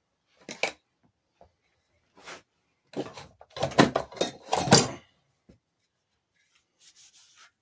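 Metal parts knocking and clattering as they are handled and set down on a workbench, with a burst of heavier clunks and rattles in the middle and light scraping near the end.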